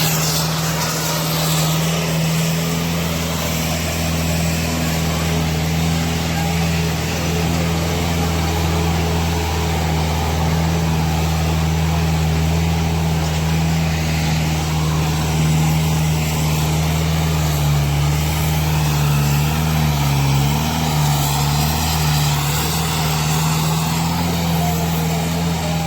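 Tractor diesel engine running hard at steady revs, its pitch sagging and wavering briefly about two-thirds of the way through before settling again.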